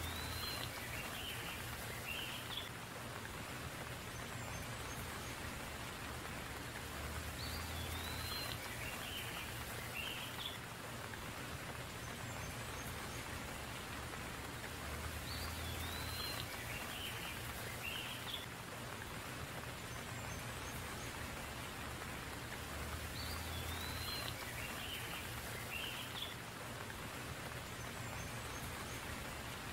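Steady rain falling, with a bird's short call, a rising-and-falling whistle followed by a few lower notes, coming back the same way about every eight seconds.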